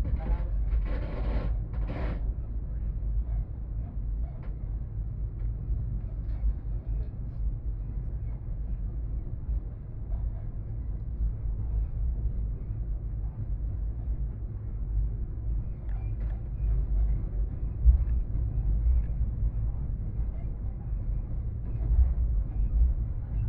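Passenger train running, heard from on board: a steady low rumble with uneven surges, and a brief voice about a second in.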